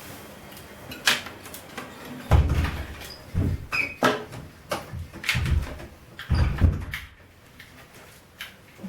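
Washing machine knocking and clunking: a run of irregular knocks, several with heavy low thuds, fading near the end.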